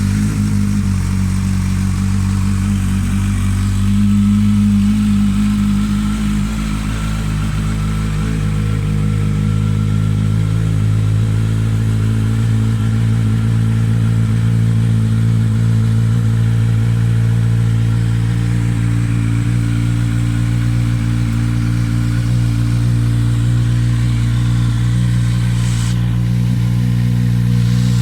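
Kawasaki Z1000's inline-four engine idling steadily through a Hurric aftermarket exhaust with the dB killer removed. The idle sits a little higher and louder for a couple of seconds about four seconds in, then settles to an even idle.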